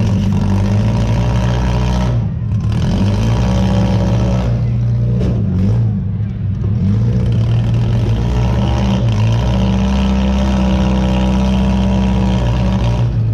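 Demolition derby car's engine running loudly, heard from inside the car, a steady low drone that briefly dips about two seconds in and again around six seconds.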